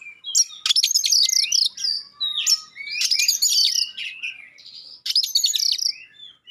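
Oriental magpie-robin singing a fast, varied song of sharp rapid-fire notes and whistles, in several bursts with short pauses between them.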